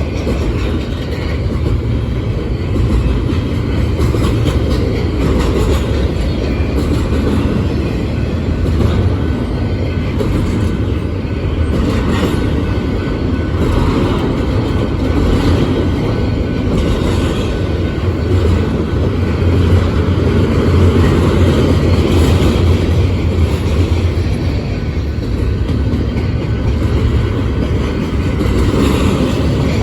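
Union Pacific intermodal freight train rolling past: a steady loud rumble of cars and wheels, with scattered clicks and clunks of wheels over the rails.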